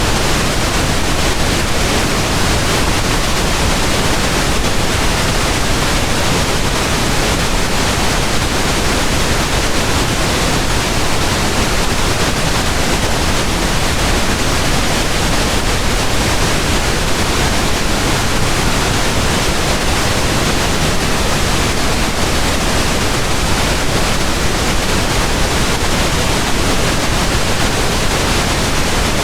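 Pink noise: a steady, unchanging hiss spread evenly across the whole range from deep rumble to high hiss.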